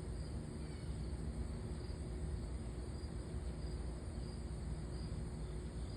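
Wind on the microphone, a steady, gusting low rumble. Faint short high chirps come every second or so over it.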